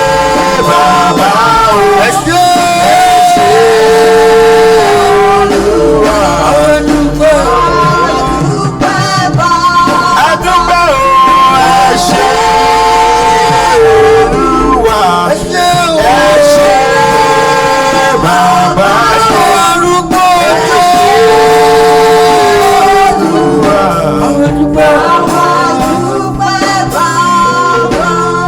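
Live church worship music: a praise band playing steadily with voices singing a melodic line.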